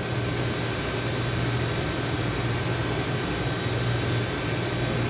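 Steady mechanical hum of a running machine, a low drone over an even hiss, with no change through the stretch.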